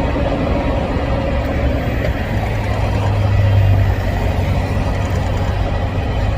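Diesel locomotive engine running with a steady low rumble that swells for a second or two about halfway through.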